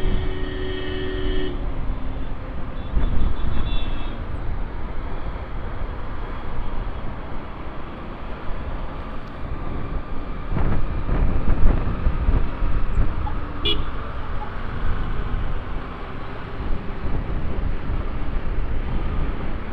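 Riding noise from a motorcycle on an open road: wind rushing over the microphone mixed with the engine and passing traffic. A steady pitched tone, like a vehicle horn, cuts off about a second and a half in, and the rumble swells for a couple of seconds past the middle.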